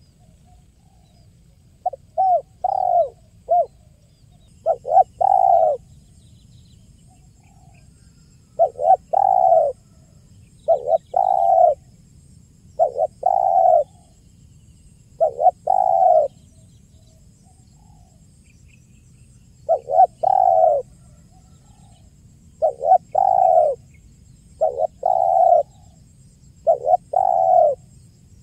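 Spotted dove (tekukur) cooing: short phrases of a few coos repeated every two seconds or so, with a few longer pauses between runs. This is the "kuk 1" song type that keepers use as a lure.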